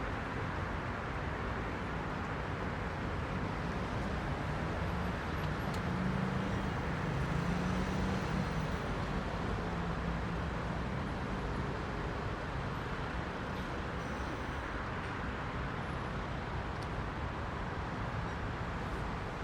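Dense rush-hour city traffic: a steady wash of tyres and engines from many cars. In the middle a louder vehicle's low engine hum swells and fades as it passes.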